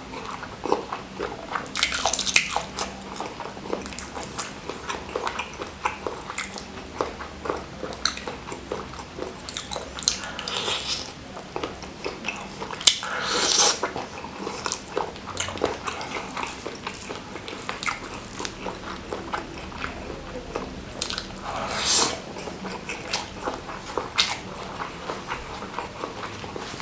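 Close-miked eating: chewing and biting on a mouthful of salted-squid sambal with rice, with many small wet mouth clicks and louder crunching bites now and then, the loudest about halfway through.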